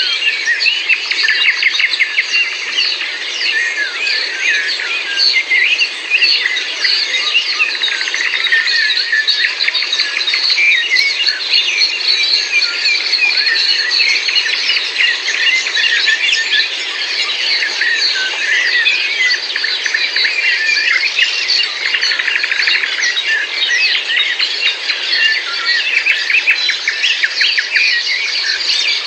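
Dense chorus of many songbirds singing and chirping at once, with overlapping short calls and trills continuing without a break.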